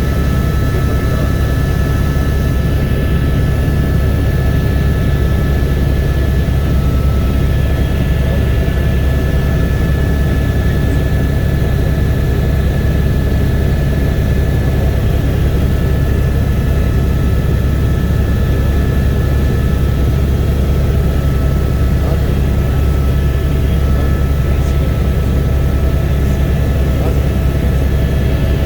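Helicopter in flight: a steady, loud drone of turbine and rotor with a constant whine over the low rumble.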